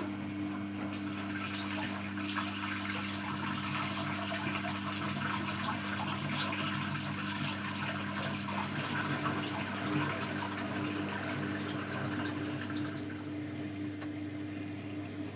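Miele Novotronic W822 washing machine pumping out its wash water: the drain pump hums steadily while water rushes and gurgles through, the water noise easing off near the end.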